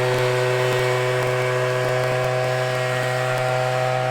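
Leaf blower running steadily at a constant pitch, blowing out a yard of track.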